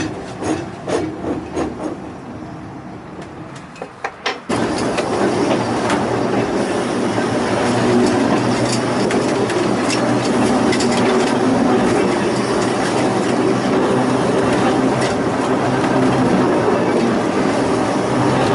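Volk's Electric Railway car: a run of clicks and knocks dying away over the first few seconds, then, after an abrupt change, the steady running noise of the car on its rails with a low steady hum underneath.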